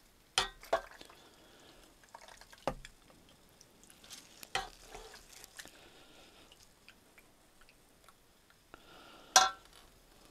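Tableware sounds while a lemon is squeezed over a salad and food is served: scattered light clicks and knocks of utensils against dishes, with small drips. A sharp ringing clink of dishware near the end is the loudest sound.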